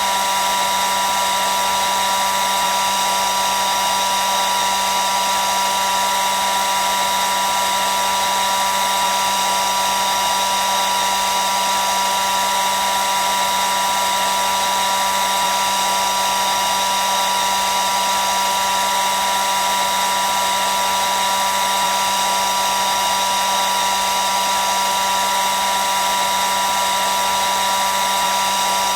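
Hair dryer running continuously: a steady, unchanging fan-and-motor whir with a high whine in it.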